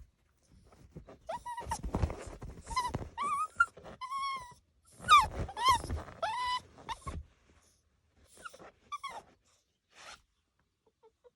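Miniature wirehaired dachshund puppy making high whining yelps mixed with rough growly sounds, in two busy bursts, then a few short, fainter whines near the end.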